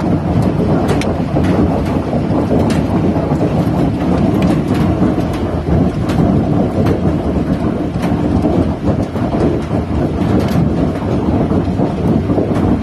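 Hailstorm: large hailstones and heavy rain pelting down in a loud, dense, steady roar, with many sharp clicks of individual stones striking.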